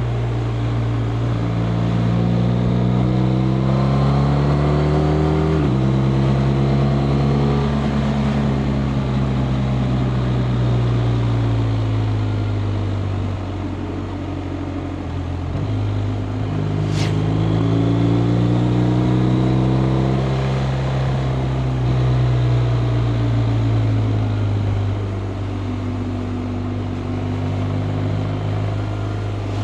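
BMW R 1250 RT's boxer-twin engine pulling under way: the revs climb, fall sharply at an upshift about five and a half seconds in, climb again to a second upshift about halfway through, then fall away as the bike slows in the last third. A single sharp click comes just after the second shift, over a steady rush of wind.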